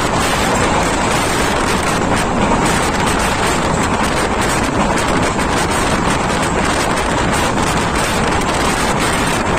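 A train running at speed through a halt without stopping, recorded from aboard: a loud, steady rush of wind buffeting the microphone over the train's running noise.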